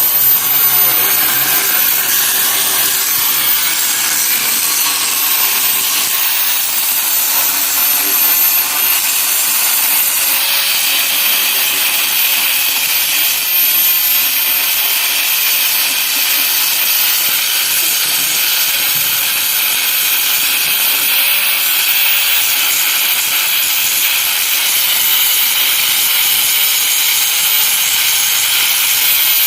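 Electric arc welding on a cracked steel excavator boom: a steady hissing crackle that runs unbroken.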